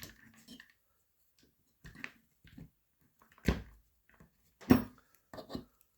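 Small metal parts and screws of a paintball marker's receiver being handled and set down: scattered light clicks and two louder knocks, about three and a half and nearly five seconds in.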